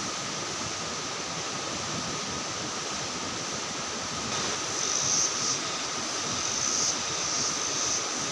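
Steady hiss of heavy rain, with a high-pitched buzzing that comes and goes from about halfway through.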